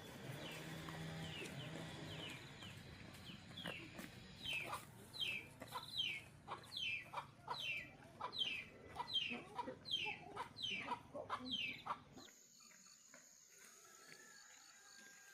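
Chickens clucking, a run of short falling calls about twice a second. About twelve seconds in it cuts off to a quiet background with a steady high tone.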